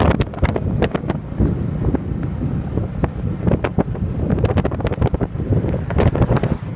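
Wind buffeting the microphone of a moving motorcycle: a loud low rumble broken by frequent crackling gusts.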